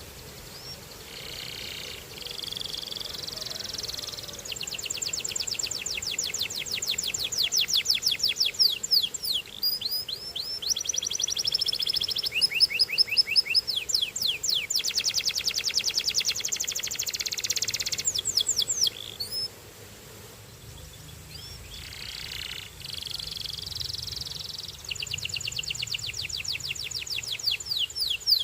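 Canary singing a long song of rapid trills: rolls of fast repeated notes and quick sweeping whistles, with a short pause about two-thirds of the way through before the song resumes.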